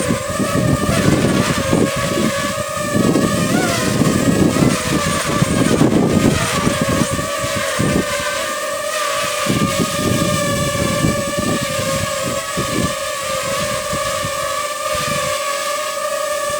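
Quadcopter drone hovering in strong gusty wind: a steady propeller whine with several pitches stacked, while wind buffets the microphone in heavy gusts that ease off after about halfway.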